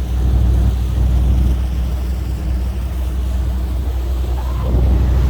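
Tugboat engine running steadily with a low rumble, a little louder near the end.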